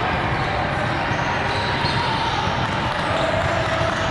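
Steady din of a large hall full of volleyball play: ball hits and bounces mixed with the chatter of many voices.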